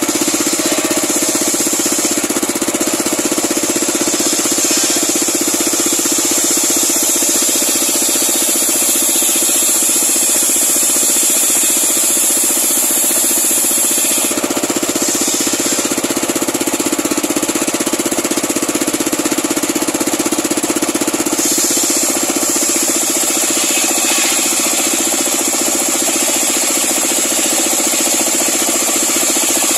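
Homemade circular sawmill running steadily and loudly with a rattling engine drone, its big blade sawing through a large pule log. The high ringing of the cut changes about halfway through, and again a few seconds later.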